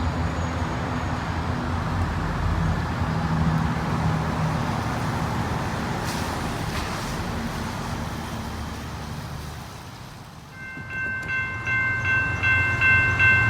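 Steady low rumble fading away. About ten seconds in, a railroad grade-crossing warning bell starts ringing in even, repeated strokes, signalling an approaching train.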